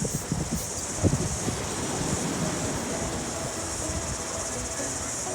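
Insect chorus: a steady, high-pitched buzzing, with a couple of short knocks near the start and about a second in.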